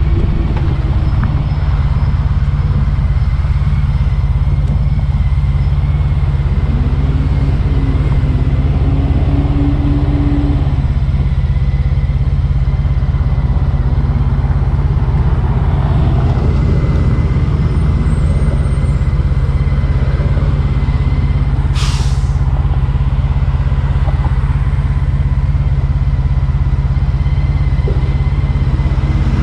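Motorcycle riding at a steady pace: the engine is running under heavy wind noise on the microphone, the level staying constant throughout. A single short, sharp hiss cuts through about two-thirds of the way in.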